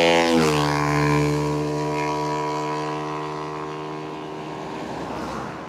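A motor vehicle passes on the road, its engine note dropping in pitch as it goes by and then fading away.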